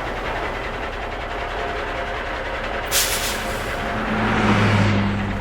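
HO-scale Bachmann Spectrum Peter Witt model streetcar running on the layout, a steady mechanical rumble with a short burst of hiss about three seconds in and a low steady hum starting about a second later.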